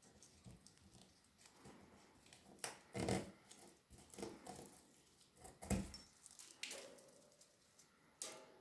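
Scattered sharp knocks and taps with soft rustling between them, loudest about three seconds in and again just before six seconds.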